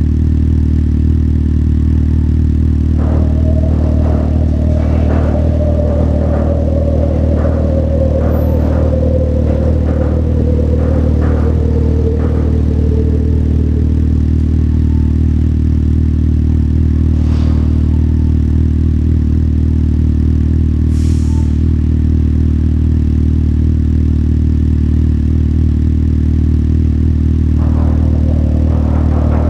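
Motorcycle engine running steadily at a low, unchanging pitch. For several seconds a fainter tone slides slowly downward beneath it, and louder noise builds near the end.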